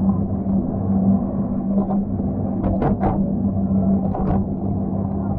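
An engine running steadily with a low, even hum, and a few short sharp sounds about three and four seconds in.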